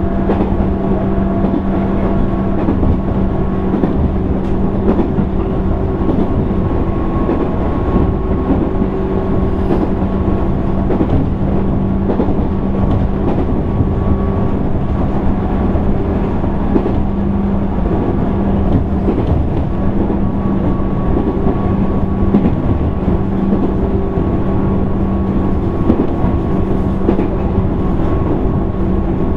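Interior running sound of a JR East 205 series 600-subseries electric motor car: a steady hum of traction motors and gearing at constant pitch over wheel-on-rail rumble, the train running at an even speed.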